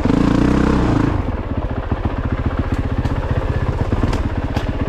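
2022 Honda CRF450RX's single-cylinder four-stroke engine running under throttle, louder and higher in a burst of revs during the first second, then running steadier and lower. A few sharp clicks in the second half.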